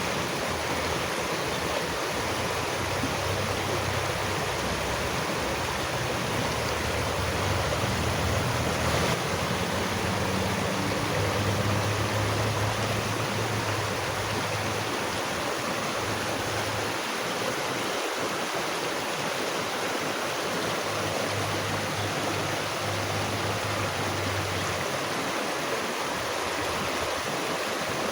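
Flowing water rushing steadily, with a low rumble underneath that drops out for a few seconds past the middle and returns.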